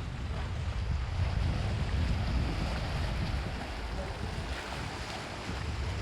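Wind buffeting the microphone in a heavy, gusting low rumble, over the steady wash of sea waves.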